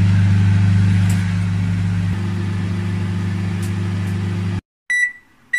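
LG MJ2886BWUM microwave oven running on high power with a steady low hum, which stops abruptly about four and a half seconds in. High-pitched beeps follow near the end, the oven signalling that the cooking time is over.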